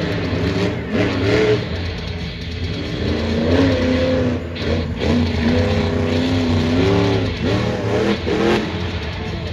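Supercharged alcohol-burning monster truck engine revving hard in several bursts, its pitch climbing and holding, then dropping off between them.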